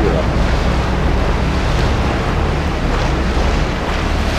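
Steady low drone of a river excursion boat's engine, with wind rushing over the microphone and water noise.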